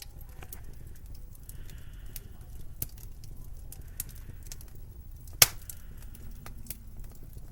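Winter ambience: a steady low wind rumble with scattered sharp pops and crackles, one much louder about five and a half seconds in, and soft crunches every two seconds or so.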